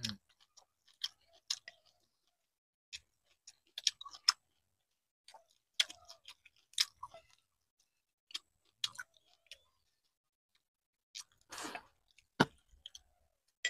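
People eating: scattered soft mouth clicks and smacks of chewing, with small taps of chopsticks against bowls. A brief rustle near the end.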